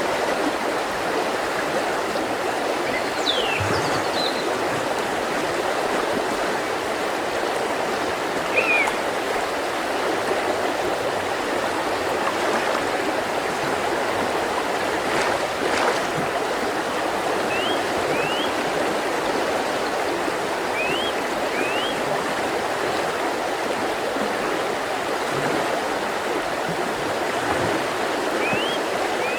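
Mountain river rushing steadily over rocks, with a few short, high bird chirps breaking in now and then, most of them in the second half.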